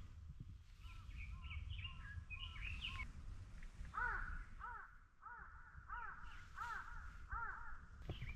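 A crow cawing in a quick run of harsh calls from about four seconds in, after smaller birds chirping. A low rumble runs underneath.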